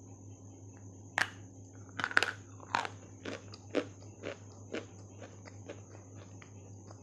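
Biting into a dry chunk of white clay, then crisp crunching as it is chewed close to the microphone: a sharp crack about a second in, a burst of loud crunches just after, then smaller crunches that fade out.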